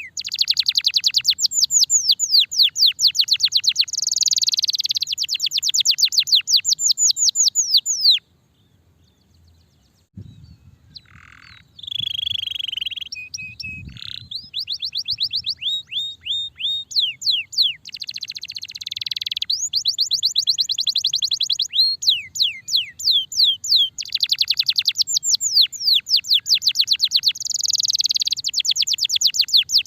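Starblue canary singing: long, rapid trills of repeated falling whistled notes. The song breaks off for about two seconds some eight seconds in, picks up again with a few lower held notes, then runs back into fast trills.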